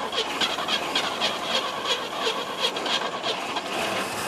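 Old car engine that has sat unused for years, just fired and running rough with hiss and a pulsing about three times a second while it is choked by hand, smoothing out to steadier running near the end.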